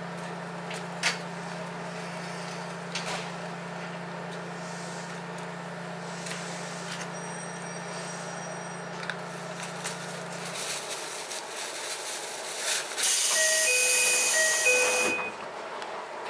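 Ichibata Electric Railway 7000-series train coming to a stop: a steady low running hum cuts out about two-thirds of the way through, then a loud hiss of air lasts about two seconds with a short electronic beeping chime over it, the sound of the brakes' air and doors working as the train halts at a station.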